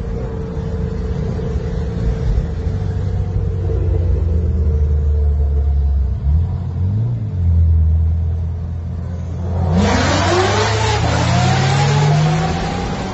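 Car engine and road noise at a steady drone. About ten seconds in, a louder hiss of traffic sets in, with engines revving up in rising sweeps.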